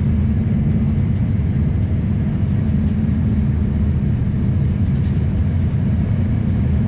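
Steady cabin rumble of an Embraer ERJ-140 in flight, from its two rear-mounted Rolls-Royce AE 3007 turbofans and the airflow over the fuselage, heard from inside the cabin at a window seat.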